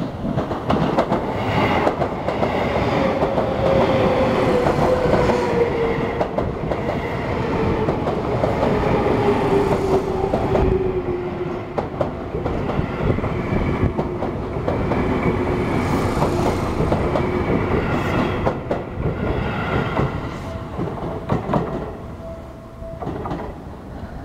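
Seibu 6050 series electric commuter train passing close by: wheels clacking over the rail joints, with a whining tone that slowly falls in pitch. The sound eases off near the end as the last cars go by.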